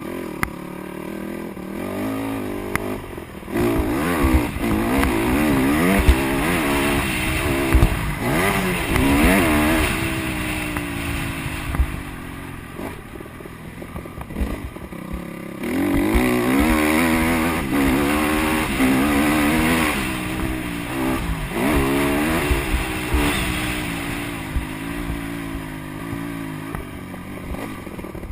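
Honda CRF150R dirt bike's single-cylinder four-stroke engine revving up and down repeatedly as it is ridden on a motocross track. It grows louder as it passes about four seconds in, falls away around twelve seconds, and passes loudly again from about sixteen seconds.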